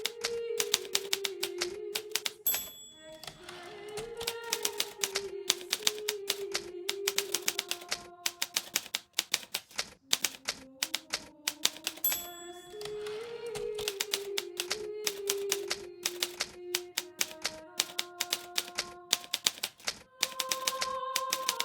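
Hermes Baby portable typewriter typing in quick runs of sharp keystrikes, pausing briefly twice, over soft background music with a slow melody.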